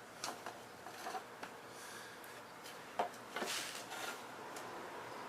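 Light clicks, knocks and rubbing as a motorcycle rear fender and its wiring are handled and worked into place; the sharpest knock comes about three seconds in.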